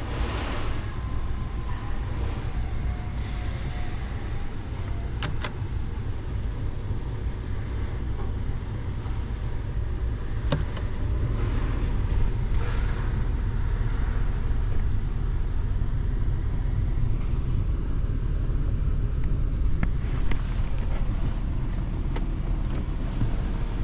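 A vehicle engine running steadily at idle, a low even rumble, with a few sharp clicks about five and ten seconds in.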